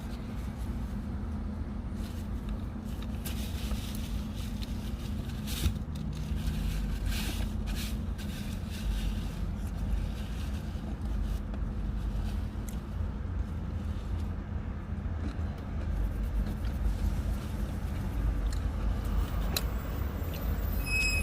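Steady low hum of a parked car running, heard inside the cabin, with scattered rustling and scraping of paper food packaging and napkins.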